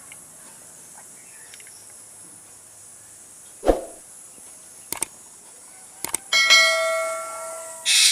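A dull knock, then a few sharp double taps, then a clear bell-like ringing tone with overtones that fades over about a second and a half and ends in a brief hiss.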